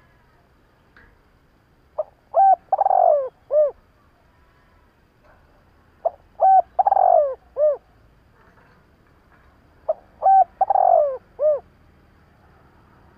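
Spotted dove cooing: three identical phrases about four seconds apart, each a short note, two quick coos, a long falling coo and a final short coo.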